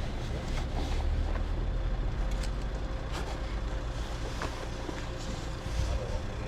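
KTM 1190 Adventure's V-twin engine running steadily with a low rumble, a faint steady tone over it and a few light ticks.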